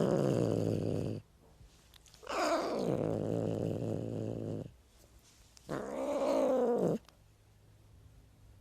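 Domestic cat meowing: three drawn-out calls, the middle one the longest and falling in pitch.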